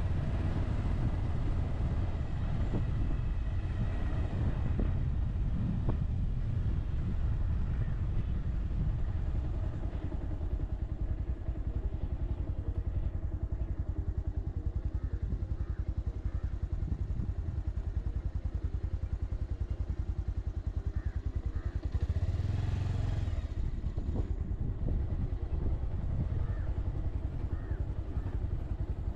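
Motorcycle engine running steadily as the bike is ridden, with a brief louder rush of noise about three quarters of the way through.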